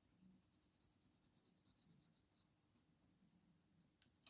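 Near silence: faint scratching of a Faber-Castell Polychromos colour pencil shading on hot-press watercolour paper, with a small tick near the end.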